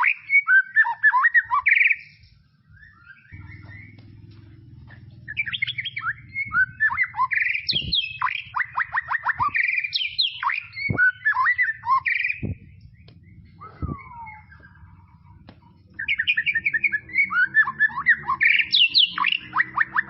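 White-rumped shama (murai batu) singing in bursts of rapid, varied phrases: fast trills, whistles and quick up-and-down sweeps, with pauses of a few seconds between bursts. A steady low hum sits underneath from about three seconds in.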